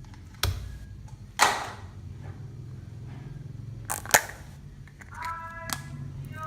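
Homemade slime being handled and mixed, giving a handful of sharp pops and snaps. The loudest comes about a second and a half in, followed by a short squishy smear, and two quick pops come close together about four seconds in.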